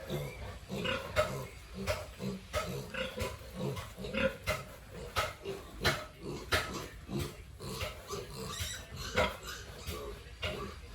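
Pigs grunting in short, irregular bursts, with frequent sharp clicks or knocks mixed in.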